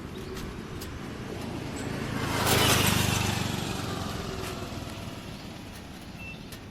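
A motor vehicle driving past, its engine and road noise swelling to a peak about two and a half seconds in and then fading away.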